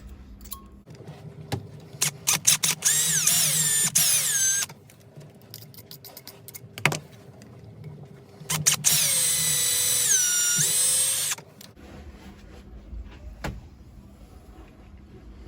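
Small power drill running in two spells of about two seconds each, a high motor whine that sags in pitch as the bit bites and then picks up again, drilling small screw holes in a cracked throttle control head housing. Light clicks and taps come between the spells.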